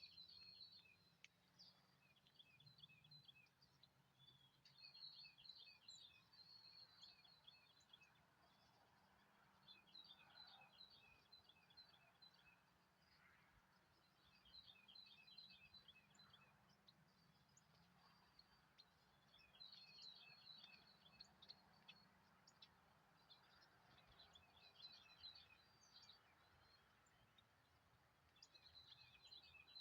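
Faint birdsong: a small bird sings quick phrases of rapid high chirps, repeated every four to five seconds.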